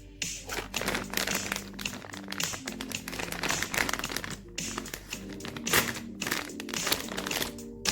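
Plastic snack wrapper crinkling and rustling as it is handled and torn open, over background music.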